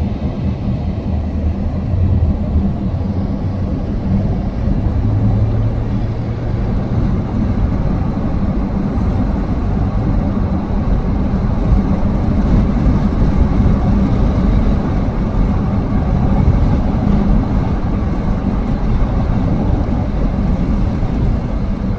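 Steady low rumble of motor-vehicle engine and road noise.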